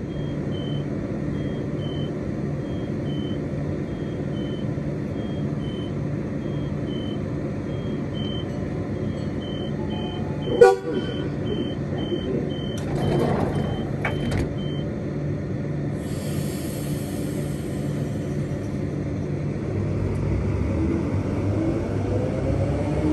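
Train standing and then moving off: a steady hum with a regular high beeping for the first fifteen seconds and one short, sharp toot about ten seconds in. From about sixteen seconds there is a high hiss, and near the end a rising whine sets in as it picks up speed.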